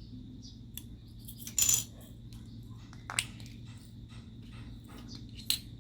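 Slime being handled and mixed: a string of small sharp clicks and pops, the loudest cluster about a second and a half in, with single sharp ones about three seconds in and near the end. A faint steady high tone runs underneath.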